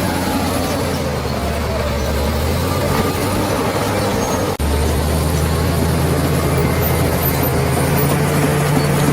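Bulldozer's heavy diesel engine running steadily. There is a brief dropout about halfway through, after which a higher engine note joins the low drone.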